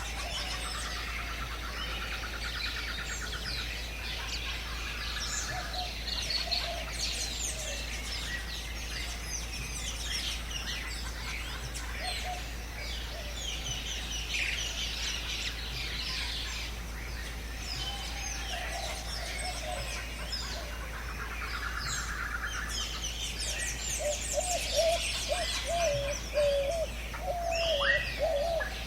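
Many birds chirping and singing at once, with short calls overlapping continuously. A rapid, even trill sounds early on and again about two-thirds of the way through, and a lower, wavering whistled call repeats over the last few seconds.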